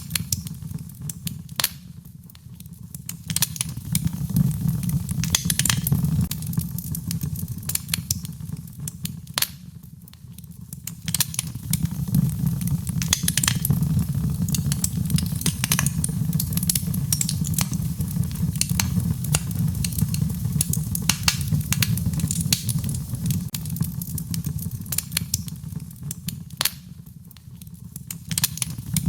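Wood fire in a fireplace crackling, with frequent sharp pops over a steady low rumble; the crackling thins out briefly a few times.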